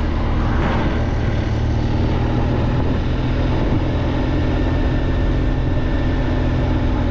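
BMW R1200GSA's boxer-twin engine running steadily under way, with an even rush of noise over it.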